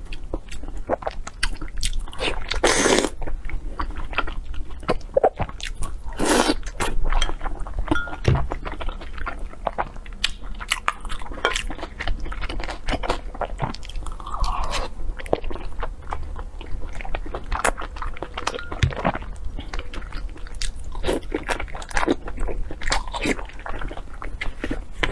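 Close-miked eating of skinless braised pork belly: wet chewing and smacking mouth clicks, many short and quick, with a couple of longer, louder sounds at about three and six seconds in.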